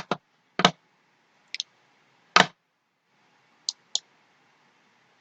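About eight sharp clicks from a computer mouse and keyboard, scattered over a few seconds, some in quick pairs.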